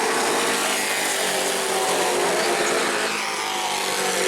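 Several racing trucks' engines running hard together, their overlapping engine notes forming a continuous drone that dips slightly in loudness about three seconds in.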